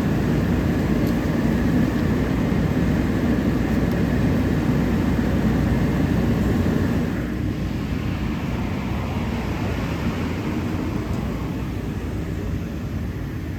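Fire engine's diesel engine running its pump, a loud steady drone that eases down a little about seven seconds in.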